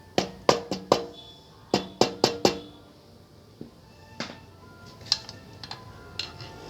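Sharp metallic knocks with brief ringing: two quick runs of four strikes in the first two and a half seconds, then lighter scattered taps. These are typical of hammer or mallet taps on engine parts while fitting a Honda Dio scooter's crankshaft assembly.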